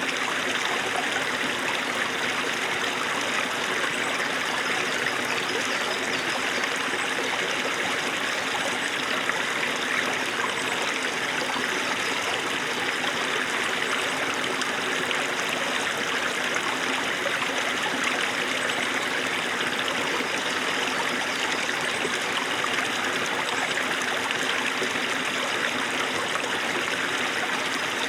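Small snowmelt-fed stream running steadily, a continuous even babble of water with no change in level.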